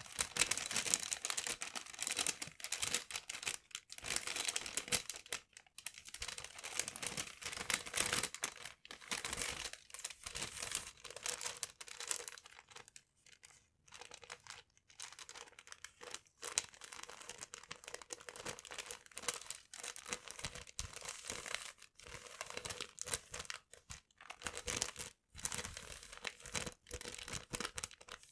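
Paper being crinkled and handled close to the microphone: irregular, crisp crackling in bursts with short pauses, a brief lull about halfway through.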